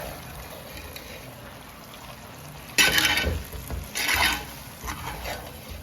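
Chicken pieces being stirred into a hot, spicy onion-tomato masala in a pan: a low sizzle, broken by bursts of scraping and sizzling about three seconds in, at four seconds, and again near five seconds.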